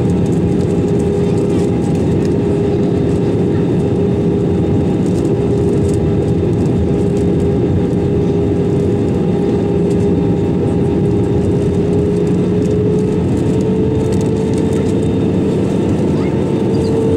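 Steady cabin noise inside an Airbus A320-200 on approach: a broad rush of airflow under a steady engine hum. The hum's pitch rises slightly in the last few seconds as the engine thrust changes.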